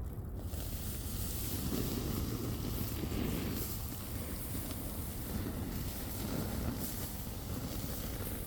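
A stream of urine splashing onto a campfire's glowing embers, with a steady hiss that starts suddenly, over low wind rumble on the microphone.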